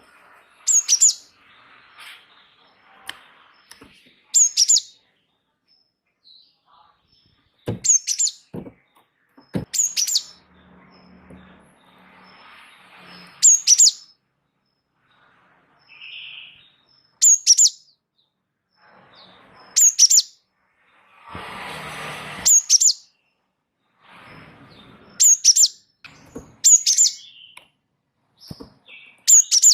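Gelatik wingko (cinereous tit) singing: about a dozen short, very high, sharp phrases, one every two to three seconds.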